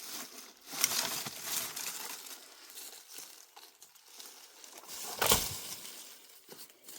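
Rustling, crinkling handling noises, with one sharp knock about five seconds in.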